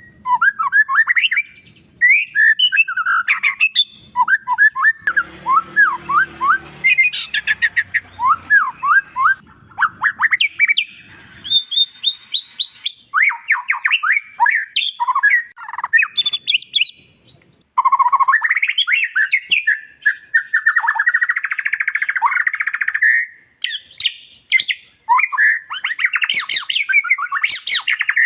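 White-rumped shama (murai batu) singing a long, varied song: quick falling whistled notes, fast trills and rattles, broken by short pauses, with a harsh buzzy stretch past the middle.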